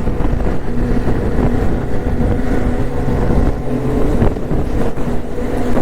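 Motorcycle engine running under way, its pitch holding and shifting slightly, with wind rumbling on the microphone.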